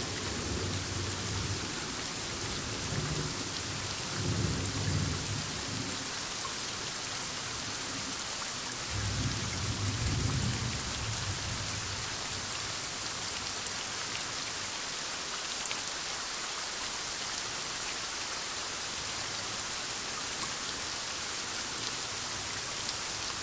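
Thunderstorm: steady rain falling, with low rolls of thunder three times in the first half, the last about ten seconds in. After that only the rain is heard.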